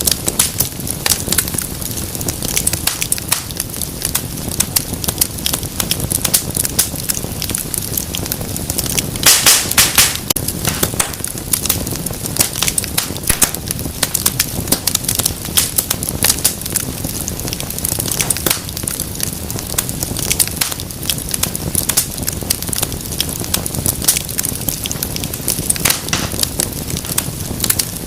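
Fireplace fire crackling: many small sharp pops close together over a steady hiss, with a run of louder pops about nine to ten seconds in.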